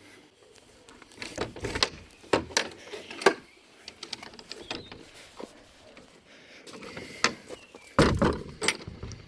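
Irregular knocks and clicks, with a heavier thump about eight seconds in.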